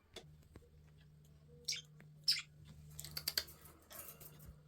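Pet budgerigars making a few short high chirps, then bursts of quick small clicks from their beaks and feet, over a low steady hum.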